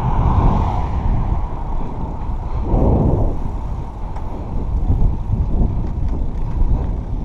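Wind buffeting the microphone and low road rumble from a bicycle being ridden, with a brief louder swell about three seconds in.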